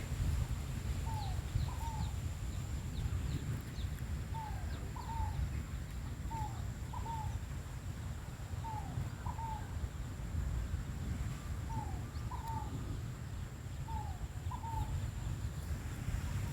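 A bird calling over and over, a short two-note phrase about every second and a half, with a few faint higher chirps early on, over a steady low rumble.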